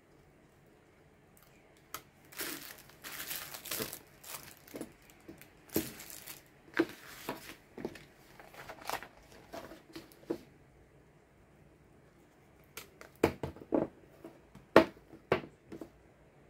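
Packaging being handled: crinkling and rustling for several seconds, then after a pause a handful of sharp clacks, the loudest near the end.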